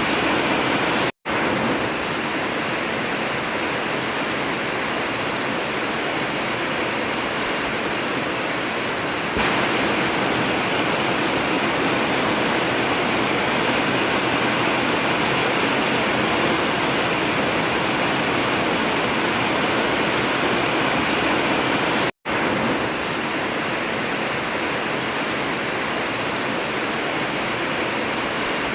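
Heavy rain drumming steadily on an old zinc (corrugated metal) roof, a dense even hiss. It cuts out for an instant twice, about a second in and near twenty-two seconds, and gets slightly louder about nine seconds in.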